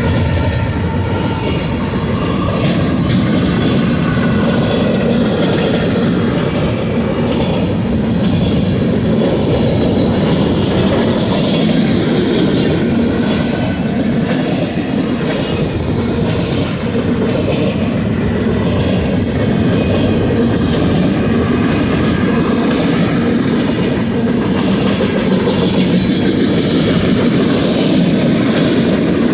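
Cars of a long freight train rolling past steadily, their wheels clicking over the rail joints.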